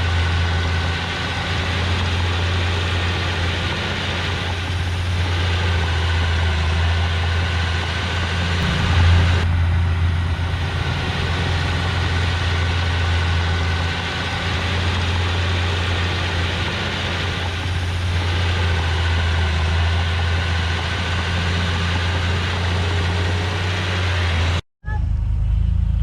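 Heavy diesel engine running steadily with a deep, even hum, from a bulldozer or dump truck at work. Near the end the sound drops out briefly, then comes back thinner.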